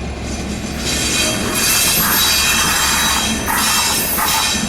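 Train running through the station: a steady low rumble under a rushing noise laced with high metallic squealing tones, louder through the middle.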